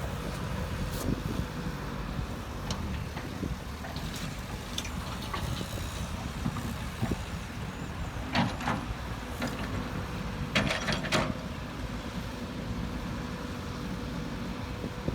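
Heavy construction machinery engine running with a steady low rumble. Sharp knocks come now and then, with a cluster of several about two-thirds of the way through.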